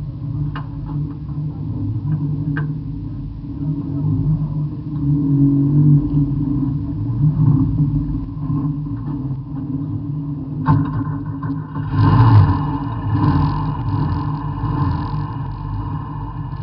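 Folk-race car's engine running at idle, heard from inside the cabin, swelling louder a couple of times as the throttle is opened. A sharp click about ten seconds in, after which the sound grows busier.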